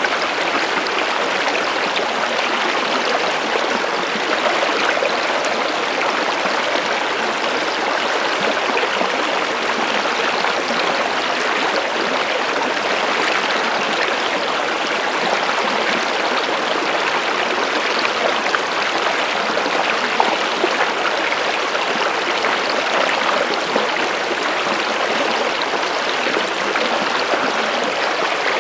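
Stream water flowing steadily, a constant rushing and splashing with no pauses.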